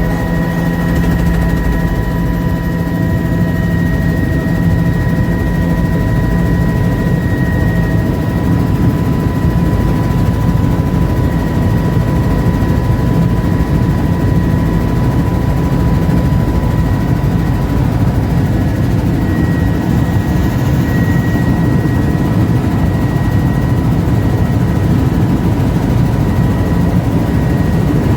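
Helicopter in flight: steady engine and rotor noise with a constant high whine over it.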